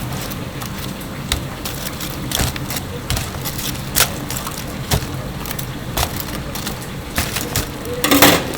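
Kitchen work: a series of sharp knocks and clacks, about one a second, over a low hum, with a denser clatter near the end.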